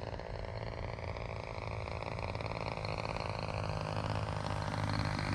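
DLE-35RA single-cylinder two-stroke gas engine of a 74-inch Extreme Flight Laser RC plane in flight, running steadily. Its note slowly rises in pitch and grows louder.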